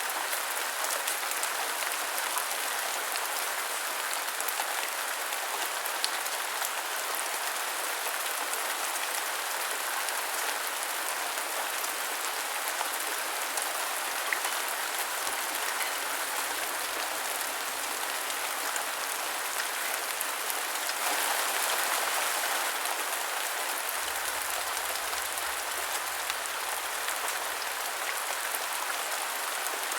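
Steady rain falling on a surface: an even hiss with scattered sharp drop ticks, swelling slightly a little past the middle.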